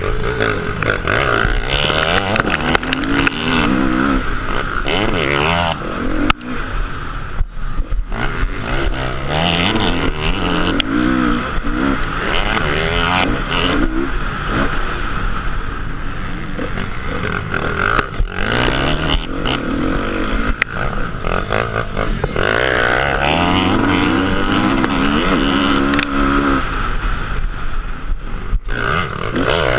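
Motocross motorcycle engine revving hard and easing off again and again, its pitch climbing in repeated rises and then dropping back as the throttle is opened and closed.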